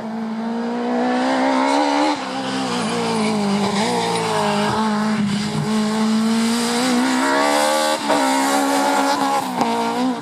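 A rally car's engine running hard at high revs on a special stage, getting louder over the first two seconds. The engine pitch dips sharply and climbs again several times as the driver shifts gear or lifts off.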